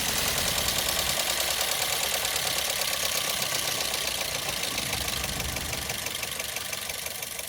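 Toyota Corolla GLi engine idling with a fast, steady ticking clatter from the top end. The mechanic treats this noise as a tappet job: taking off the tappet cover and setting the tappets.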